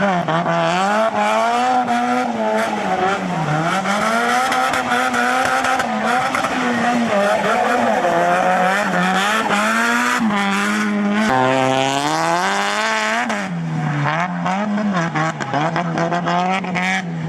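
Turbocharged SR20 four-cylinder engine of a Nissan 180SX drifting on a wet track, its revs swinging up and down every second or two under throttle, with tyre and spray hiss. The pitch drops sharply about eleven seconds in.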